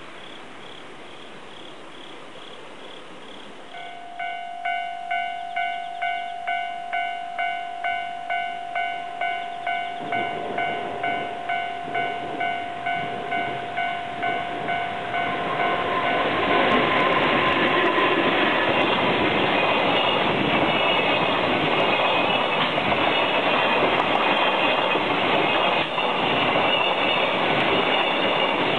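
Japanese level-crossing alarm bell ringing at about two strokes a second from about four seconds in. Then a container freight train hauled by an EF81 electric locomotive comes closer and runs past, its rumble and wheel noise growing loud and drowning out the bell from about halfway through.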